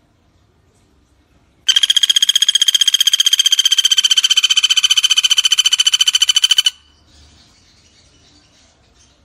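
Pelatuk bawang (common flameback woodpecker) giving one loud, rapid trill at a steady pitch, lasting about five seconds; it starts and stops abruptly.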